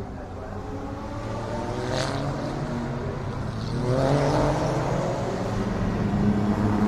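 GT3 race car engines running on track, several at once, growing louder as they come nearer, with one sharp crack about two seconds in.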